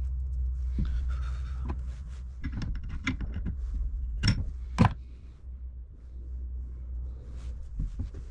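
Tools and parts handled during motorcycle suspension work: a run of small clicks and clinks, with two sharper knocks about four and a half seconds in, over a steady low hum.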